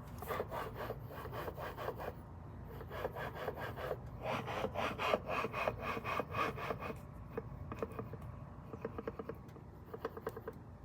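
Supercharged Toyota 3.4-litre V6 idling, with a rapid rasping rattle from the TRD supercharger that comes and goes in stronger spells, then settles into lighter, quicker ticking near the end. The noise shows only at idle; the owner suspects a worn supercharger coupler, or play in it.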